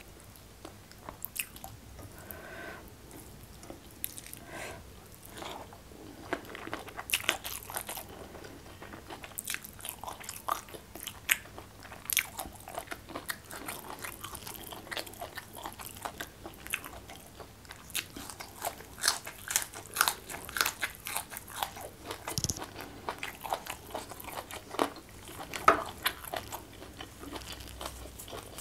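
Close-miked eating: a person crunching and chewing raw vegetables such as long beans with a mouthful of rice, in a run of irregular crisp bites and wet chewing clicks. The crunches grow louder and denser in the second half.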